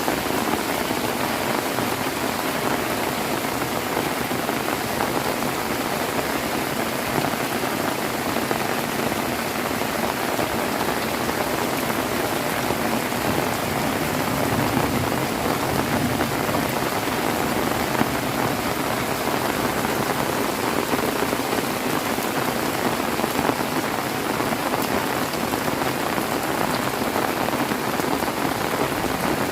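Heavy rain falling steadily in a downpour, an even unbroken hiss of rain on surfaces.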